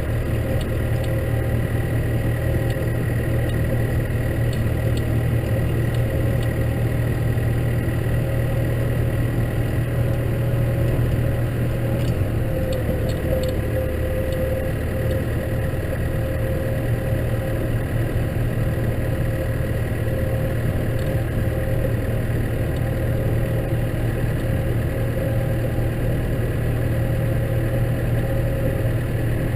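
Case tractor's diesel engine running steadily under a snow plough, with a thin steady whine riding over the engine hum.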